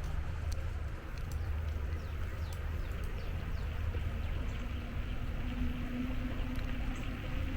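Outdoor ambience heard from a moving bicycle: a steady low rumble of wind and road traffic, with a few short bird chirps over it.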